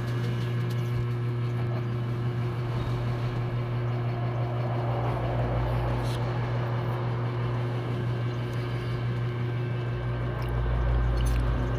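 Steady low mechanical hum of a running machine or engine, with a deeper rumble swelling twice and a few faint clicks.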